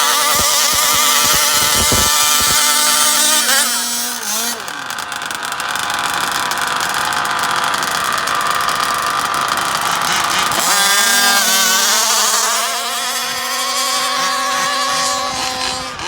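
Small two-stroke gas engines of RC drag cars running with a high, steady buzz. About four seconds in the pitch climbs into a flat-out run lasting about six seconds, then it drops back to a steady idle-like buzz.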